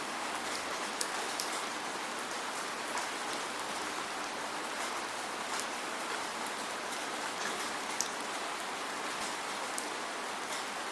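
Steady rain falling without thunder: a constant hiss with scattered sharp raindrop taps, the loudest tap about eight seconds in.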